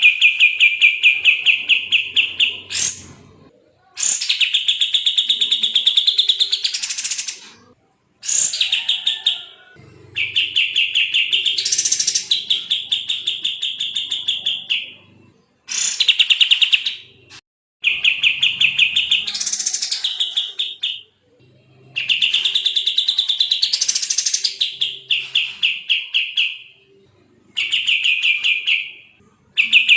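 Kapas tembak songbird singing in rapid, dense trills: loud bursts of fast repeated notes, each phrase one to three seconds long, some sweeping up in pitch near their ends, following one another with brief pauses.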